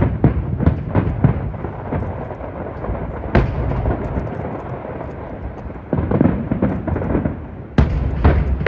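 Aerial fireworks exploding: a quick series of sharp bangs, then a single loud bang about three and a half seconds in, then lower rumbling, and a dense volley of bangs near the end. Strong wind rumbles on the microphone underneath.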